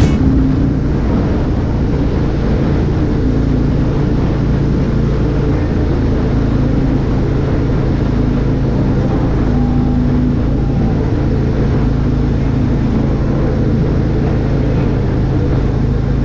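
A vehicle engine running steadily at constant speed, a loud, even low drone with no change in pitch.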